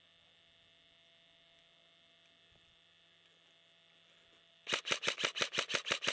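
Near silence with a faint hum, then about four and a half seconds in an airsoft gun starts firing rapid semi-automatic shots, about seven a second.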